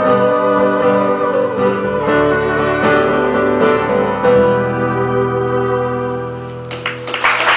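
Live song ending on sustained keyboard chords. Near the end a noisy crackle of what sounds like audience applause comes in over the last chord.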